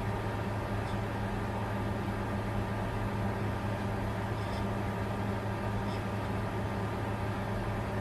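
Bitcoin mining computer running with its cooling fans: a steady low hum under an even whir of air, unchanging throughout.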